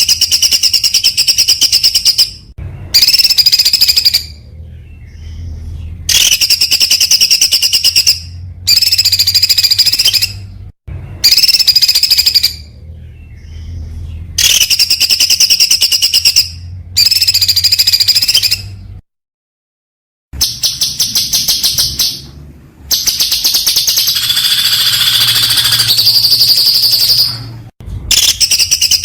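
A songbird singing in bursts of very fast, high-pitched repeated notes, about ten phrases of one to four seconds each with short pauses between them. It is the fast, rapid-fire song used as training song for contest birds.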